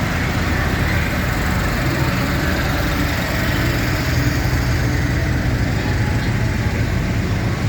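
Tractor diesel engine running steadily with a low, even hum.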